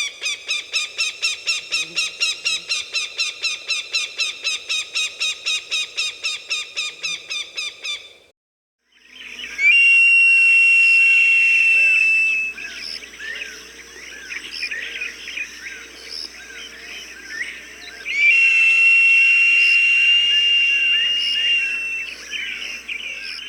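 Recorded hawk calls: a fast, even run of sharp repeated calls, about five a second, for about eight seconds. After a short break, two long high whistled cries a few seconds apart, each held for about three seconds, with smaller chirps around them.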